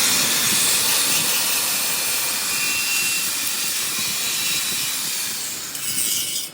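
A loud, steady hiss that cuts off suddenly near the end.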